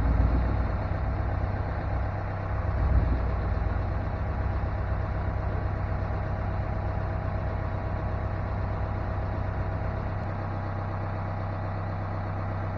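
Engine idling steadily, a low even hum, with a brief louder swell about three seconds in.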